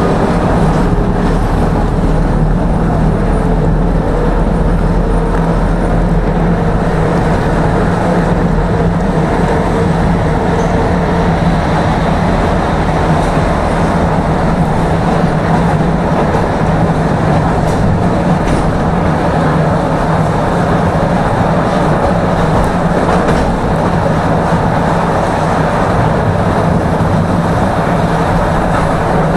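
Tram running along the track: a steady noise of wheels on rails and running gear, with a low steady hum.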